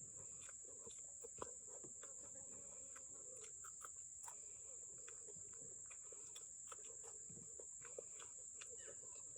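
A cricket trilling steadily at a high pitch, with faint scattered clicks over it.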